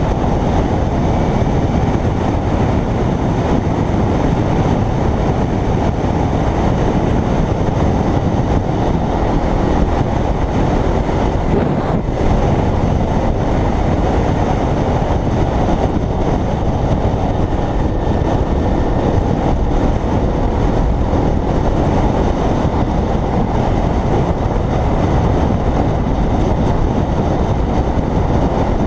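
Steady rush of wind on the microphone over a Kawasaki Ninja 300 motorcycle riding at speed, loud and even throughout.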